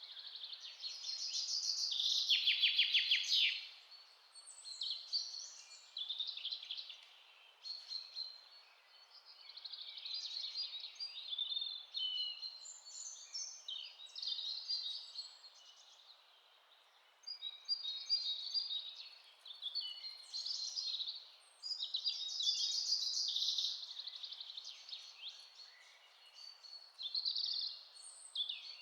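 Several wild birds chirping and singing in overlapping phrases, with a loud rapid trill about two to three seconds in. A faint steady hiss lies underneath.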